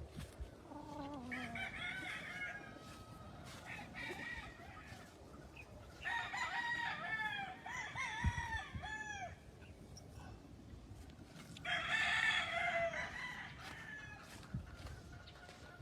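Roosters crowing and chickens clucking. One crow comes about a second in, a run of short arching calls follows in the middle, and another crow comes near the end.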